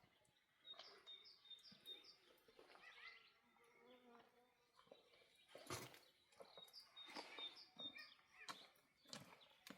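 Faint bird chirping: two runs of short, high, repeated notes, about a second in and again about seven seconds in, with a few soft knocks in between.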